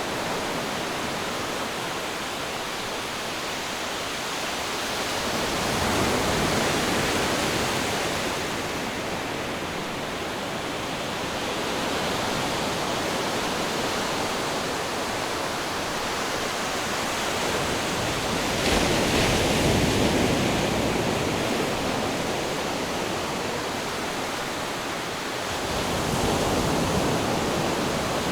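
Ocean surf: a continuous wash of breaking waves that swells three times, a few seconds in, just past the middle and near the end.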